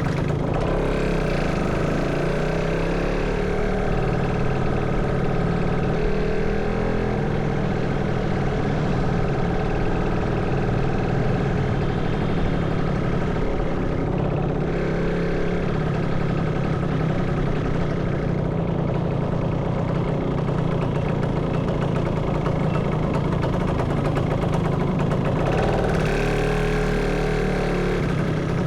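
Motorcycle engine running while riding, its pitch rising and falling with the throttle, over a steady rush of road and wind noise.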